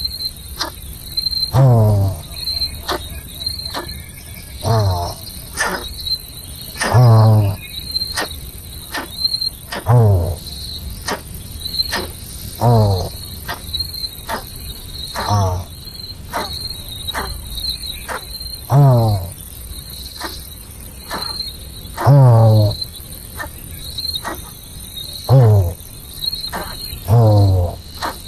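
Steady, rapid chirping of insects, with a loud sound gliding steeply down in pitch repeating about every two to three seconds.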